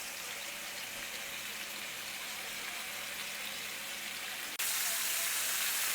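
Fish frying in hot oil, a steady sizzle that jumps suddenly louder near the end.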